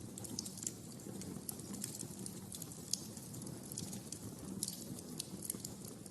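Wood fire in a fireplace crackling: irregular sharp pops and snaps, several a second, over a low steady rumble of the burning flames.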